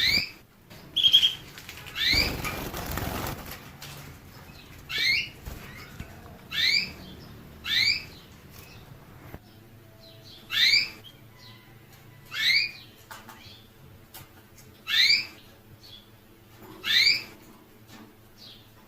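A small cage finch calling over and over, one short rising call note every two seconds or so. A burst of rustling noise, lasting about a second and a half, comes about two seconds in.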